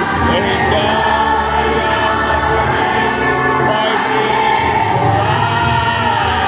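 Many voices singing a gospel hymn together with musical accompaniment, sustained notes wavering with vibrato over a steady bass.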